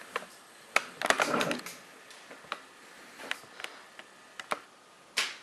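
Scattered sharp clicks and knocks, with a short rustling clatter about a second in and a brief noisy burst near the end.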